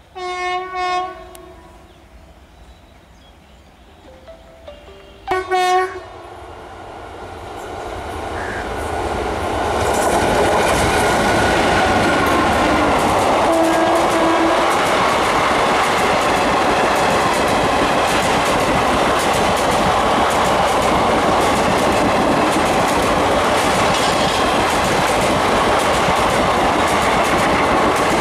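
Two short blasts of an Indian Railways electric locomotive's horn, about five seconds apart. Then a passenger express runs through close by at speed: its noise rises over a few seconds into a steady loud rumble, with the clatter of wheels over the rail joints.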